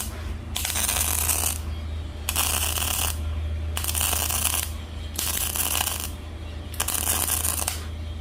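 Electric arc welding of steel, laying a run of short tack welds: five bursts of crackling hiss, each just under a second, about every second and a half, over the welder's steady low hum.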